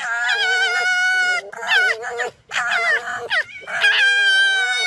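An animal giving about four long, wavering, high-pitched calls in a row.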